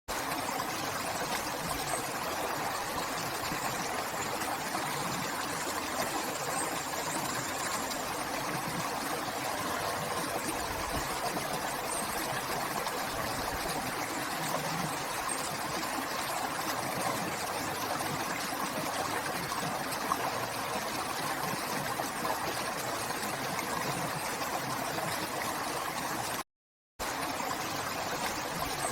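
River water flowing in a steady, even rush, with a brief cutout to silence of about half a second near the end.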